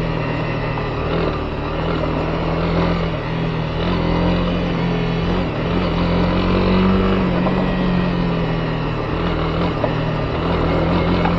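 Honda CB250R's single-cylinder engine running at a steady pace on a gravel road, its pitch rising a little and easing back about two-thirds of the way through, over the rough noise of tyres on the dirt surface.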